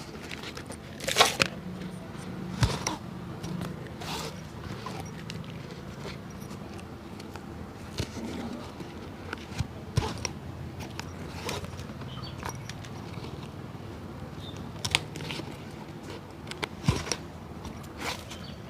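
Irregular taps, clicks and scrapes of hand work on a shoe, over a steady low hum.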